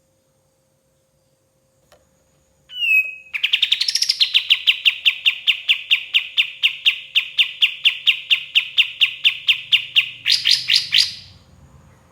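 Kapas tembak songbird singing: a short falling whistled note, then a long rapid trill of evenly repeated notes, about five a second for some seven seconds, ending in a few quicker rising notes.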